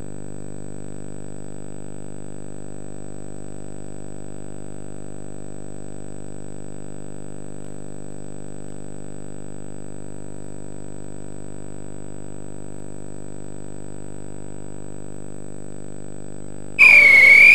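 A steady electrical hum with many overtones from the tape's soundtrack, unchanging. Near the end it is cut off by a sudden loud whistle.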